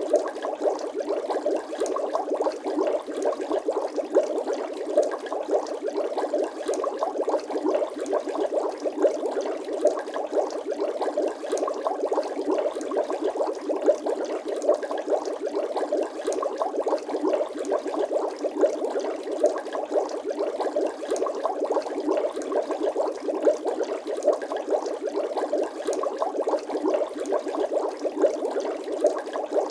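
Water bubbling steadily, a dense, even stream of small bubble pops.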